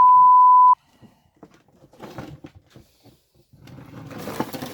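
Censor bleep: a loud, steady 1 kHz beep lasting under a second, laid over a word. Faint talk follows.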